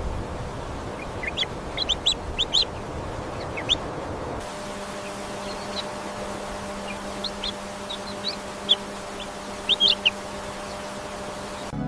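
Small birds chirping: short, high calls in scattered clusters over a steady background hiss, which changes abruptly about four seconds in.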